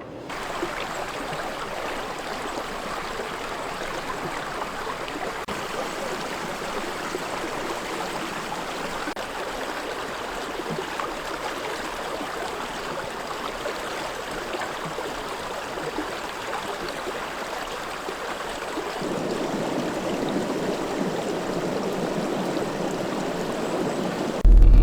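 Running water: a steady rushing noise like a stream, getting a little fuller about two-thirds of the way through.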